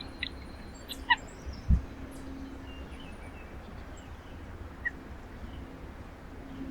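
Small songbirds at a feeder giving short, sharp chirps and chip calls, a quick cluster about a second in and a single chip near five seconds, with one low thump just after the first cluster, over a steady low hum.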